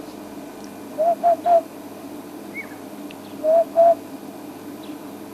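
African hoopoe calling: a hollow, low "hoop-hoop-hoop" of three quick notes, then a pair of the same notes a couple of seconds later.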